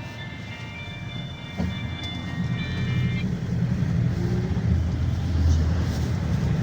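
Steady low rumble of a GAZelle Next minibus's engine and running gear heard from inside the cabin, growing louder about halfway through. For the first three seconds a thin, steady high whine of several tones sits over the rumble, and there is a single click near the middle.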